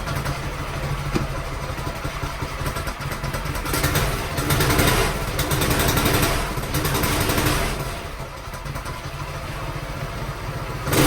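Go-kart engine running, revved up about four seconds in and easing back down a few seconds later.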